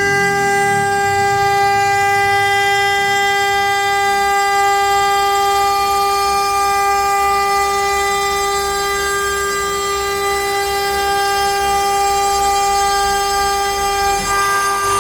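CNC router spindle running with a steady high-pitched whine and overtones while it mills pine.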